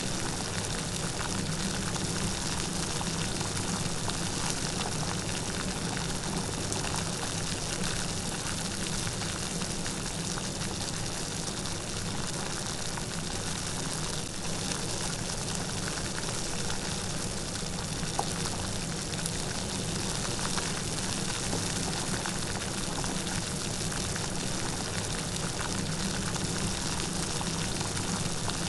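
Steady light rain falling, an even hiss of drops with faint scattered pattering.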